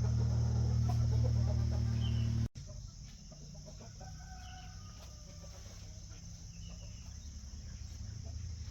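A steady low hum that cuts off suddenly about two and a half seconds in, followed by chickens clucking in the background.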